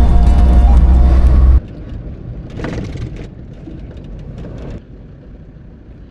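Background music with a heavy bass line that cuts off about a second and a half in, leaving the quieter, steady noise of a vehicle driving on the road.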